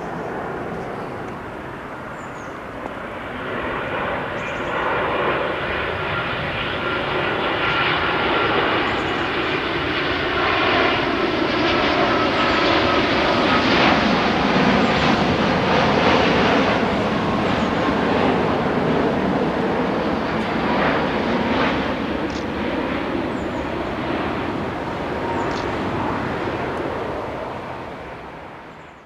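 Train passing at speed through a level crossing: a steady rush and rumble of wheels on rails that builds over the first few seconds, is loudest around the middle and fades toward the end, with a thin high whine over it.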